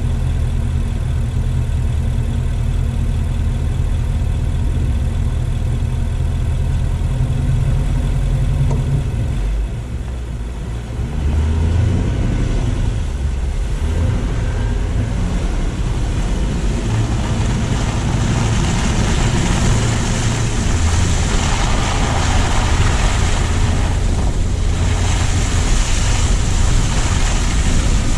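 Car engine running steadily at low speed, then the car pulls away and tyre noise on the snowy road builds into a loud hiss that is strongest near the end.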